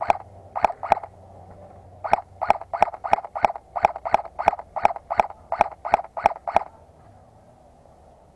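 A frog calling in a long, regular series of short croaks, about three a second, that stops abruptly near the end.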